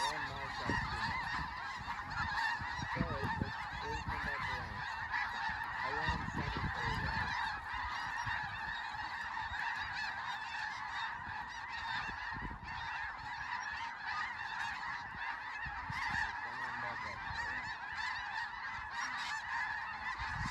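A huge flock of snow geese calling overhead: a dense, unbroken din of many overlapping high-pitched honks.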